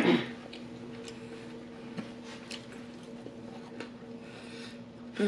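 Close-miked chewing of French fries: soft wet mouth squishes and scattered faint clicks, over a low steady hum.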